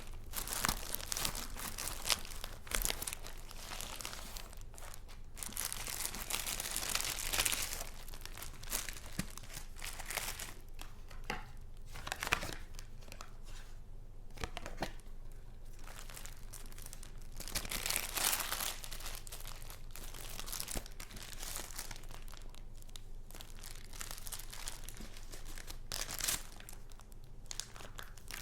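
Paper crinkling and rustling as paper goods are handled, coming in irregular bursts with a few sharp clicks.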